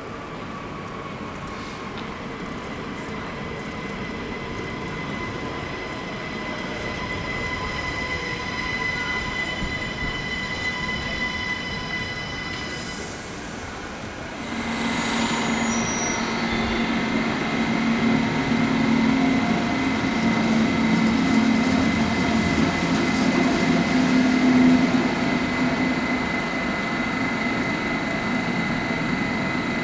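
Electric train at a station, with steady high whining tones over its rumble. About halfway through there is a short hiss, after which the rumble grows louder with a low hum.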